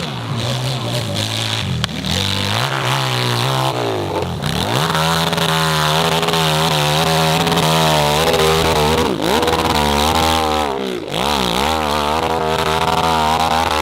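Motorcycle engine revving hard and unevenly, its pitch swinging up and down again and again as the throttle is worked, over a steadier engine drone.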